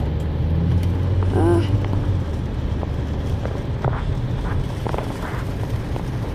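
Car running, heard from inside the cabin: a steady low engine and road hum with scattered light ticks, and a short vocal sound about a second and a half in.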